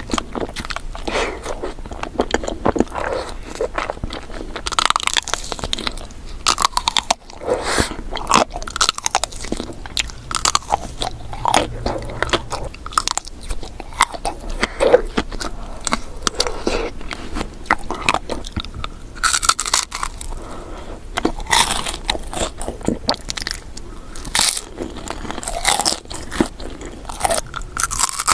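Close-miked eating sounds: repeated bites and crunches followed by wet chewing of desserts, in an irregular, continuous run.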